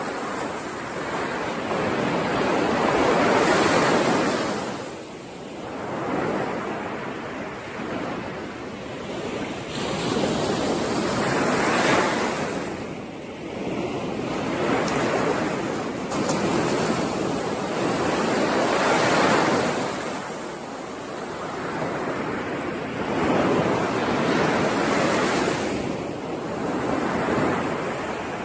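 Ocean waves breaking and washing on a shore, the surf swelling and falling away in slow surges every few seconds.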